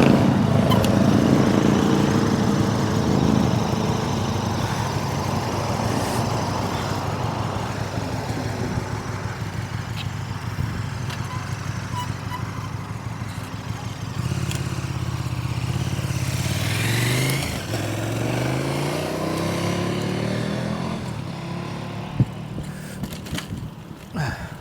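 Road traffic passing close by, loudest in the first few seconds. About halfway through, a motor vehicle's engine accelerates, its pitch climbing in steps.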